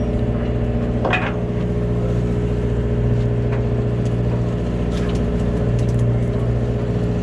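Charter boat's engine running steadily with a low, even hum. There is a short rising squeak about a second in.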